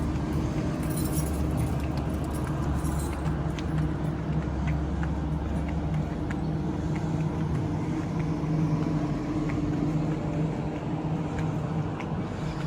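Electric suburban passenger train running along the track, heard from inside the carriage: a steady low hum and rumble with scattered light clicks and rattles.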